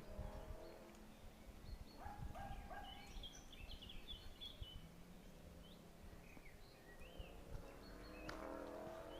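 Faint outdoor ambience with small birds chirping in short high bursts, twice in clusters, over a low steady rumble.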